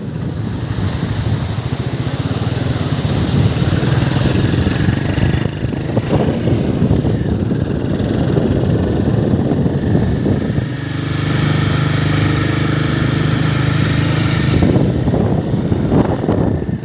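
Vehicle engine running steadily, with a noisy rush over it; the engine tone changes about eleven seconds in.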